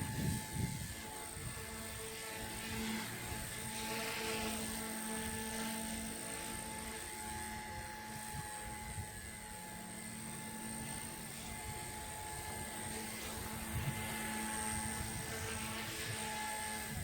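Align T-REX 150X micro RC helicopter hovering and flying, its electric motor and rotors giving a steady high whine, with gusty wind rumbling on the microphone underneath.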